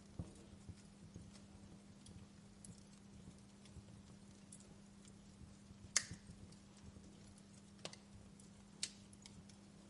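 Wood fire in a fireplace crackling faintly, with scattered sharp pops: the loudest about six seconds in, and two more near the end.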